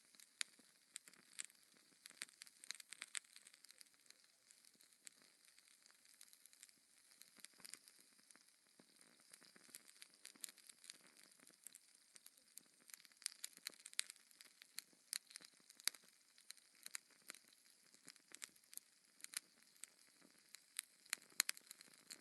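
Log fire crackling: irregular sharp snaps and pops, several a second, over a faint steady hiss.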